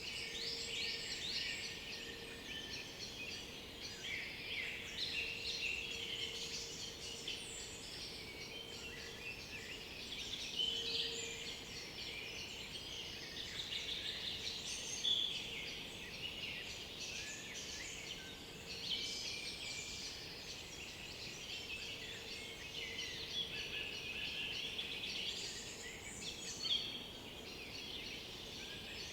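Several woodland songbirds singing over one another in a continuous chorus of overlapping chirps, trills and short phrases.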